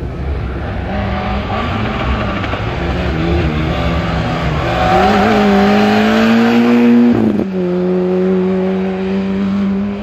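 Small rally hatchback's engine revving hard as it accelerates away, its pitch rising, then a quick upshift about seven seconds in, after which it pulls on at a steady pitch.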